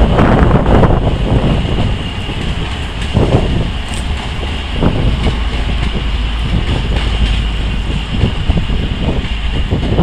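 2M62U diesel locomotive, with its 14D40 two-stroke diesel engines, running past with a loud steady rumble that surges now and then. Wind buffets the microphone.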